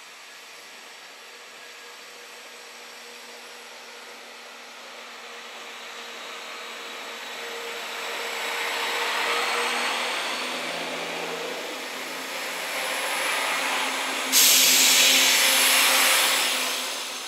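Cross Country Class 170 Turbostar diesel multiple unit running past along the platform. Its engine and wheel noise builds steadily to a peak. About three-quarters of the way through, a sudden loud rushing noise begins as the coaches go by, and it fades away near the end.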